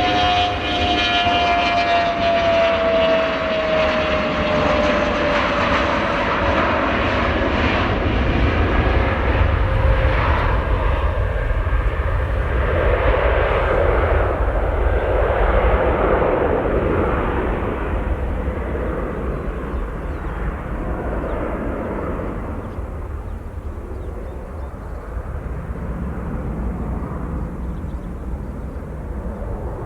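Jet airliner passing by. Its engine whine falls slowly in pitch over the first ten seconds over a broad rumble, and the rumble then slowly fades and dulls as the plane moves away.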